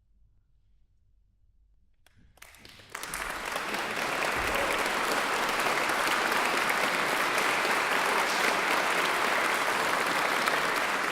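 Near silence for about two seconds, then an audience starts applauding, swelling within a second and holding steady.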